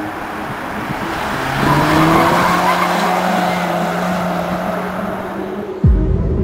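A GTI's engine pulling hard, louder from about a second and a half in, its pitch climbing slowly for several seconds. Near the end the pitch drops suddenly and a loud low rumble follows.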